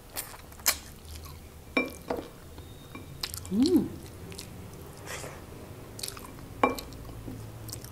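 Close-up wet chewing and mouth clicks of a person eating tender pork from sinigang, with now and then a smack of lips or fingers. A short hum rises and falls a little before the middle.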